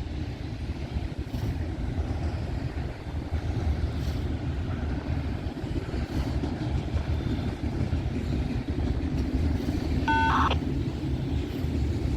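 Freight train rolling by with a steady low rumble. About ten seconds in, a brief high warbling beep sounds for about half a second.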